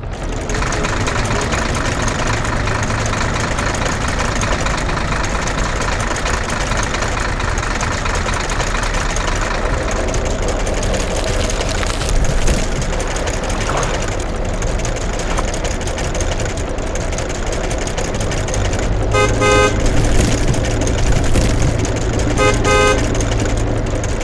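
Heavy vehicle engine running steadily and loudly, with two short runs of rapid beeps near the end.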